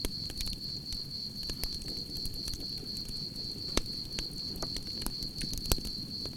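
Campfire crackling and popping over a low rumble of burning wood, with two sharper pops about four and six seconds in. Crickets trill steadily at one high pitch behind it.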